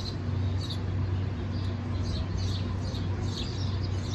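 Birds chirping again and again in short, high notes that fall in pitch, several a second, over a steady low hum.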